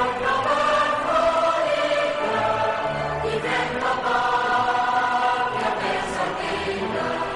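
Choral music: a choir singing long, held notes that change slowly.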